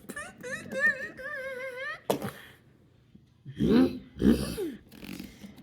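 A person's voice making mouth sound effects: a wavering hum for about two seconds, a click, then low throaty grunting sounds.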